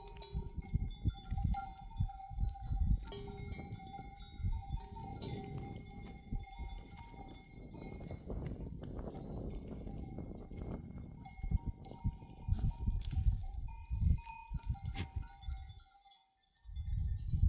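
Sheep bells clanking and ringing as a flock moves, over a low, uneven rumble with knocks. The rumble drops out briefly near the end.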